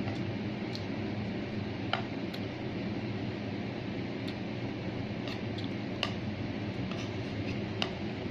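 Eating at a plate: short light clicks and taps of a utensil, about seven scattered through, over a steady background hum.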